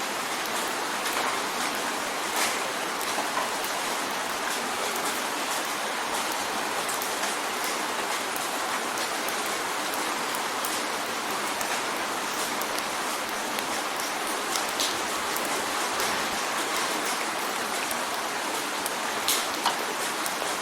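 Steady rain drumming on a window pane, an even hiss dotted with many sharp drop ticks.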